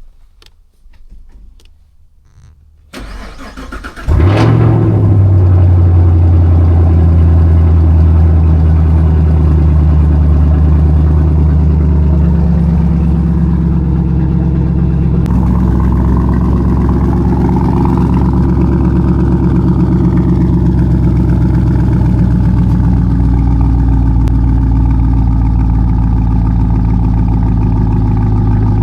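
Chevrolet Camaro ZL1's supercharged 6.2-litre V8 cranked by the starter and catching about four seconds in with a brief rev flare, then settling into a loud, steady idle. The idle steps down slightly about halfway through.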